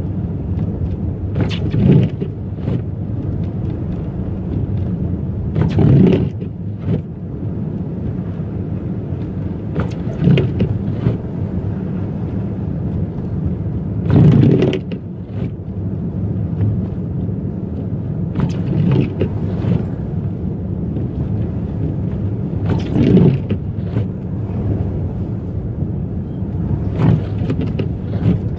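Car driving on a snowy road: a steady low rumble of engine and tyres, with a short louder burst about every four seconds.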